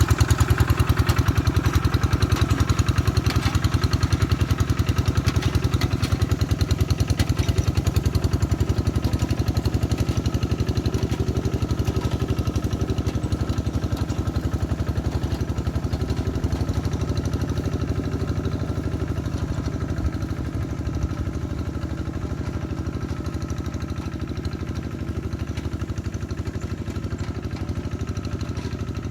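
Single-cylinder diesel engine of a hand tractor (Quick G1000) running steadily with a fast, even chug while plowing a flooded rice paddy, gradually getting quieter.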